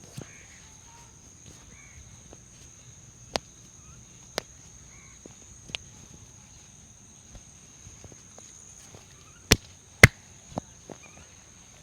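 Scattered sharp hand slaps and taps of a head massage, landing a few at a time. The two loudest come about half a second apart near the end. A steady faint high-pitched whine runs underneath.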